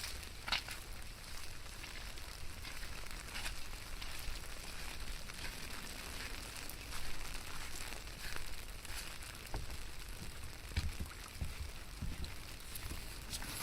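Rain falling steadily, with scattered sharp drips and a few soft low thumps near the end.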